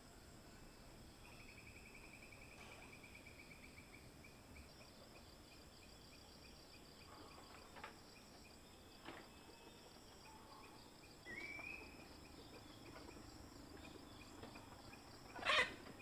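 Faint steady chorus of insects chirring, with high continuous trills and a pulsing trill in the first few seconds. A short rising call comes about two-thirds of the way in, with a few soft clicks and a louder knock near the end.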